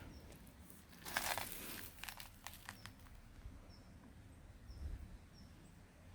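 A brief rustling, crunching noise about a second in, followed by a few sharp clicks, with several faint, short, high chirps of a small bird through the rest.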